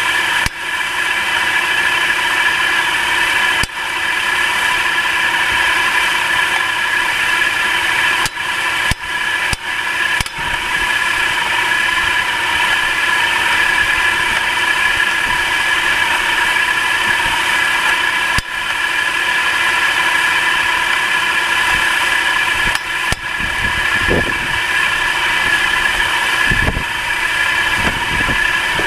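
Nissan March NK13's 1.2-litre three-cylinder engine running at idle, with a steady high-pitched whine over the engine noise and a few brief low surges near the end. The owner says the car knocks under the hood until it warms up and flashes its battery warning light.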